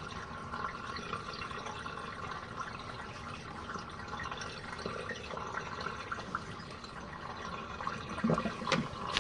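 Water running and trickling steadily in a small RV washing machine's tub, with a few light knocks near the end.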